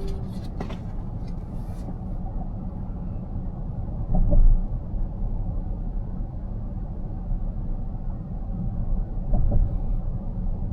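Road noise inside a car cruising on an expressway: a steady low rumble from the tyres and drivetrain, swelling briefly about four seconds in and again near the end.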